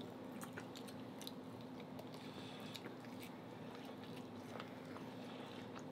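Faint chewing and mouth sounds of people eating oxtail off the bone with their hands: scattered small clicks and smacks. A steady low hum runs underneath.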